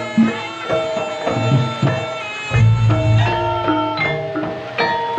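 Javanese jaranan ensemble music played live: kendang hand-drum strokes under ringing notes from tuned metal percussion.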